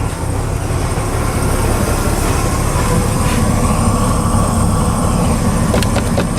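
MerCruiser 302 sterndrive's Ford V8 engine running steadily, a low, constant rumble. A few sharp knocks near the end.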